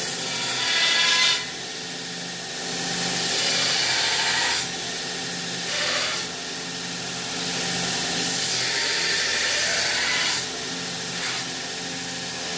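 A power tool working on the steel blade, in passes of a few seconds that rise and fall in level, over a steady low hum.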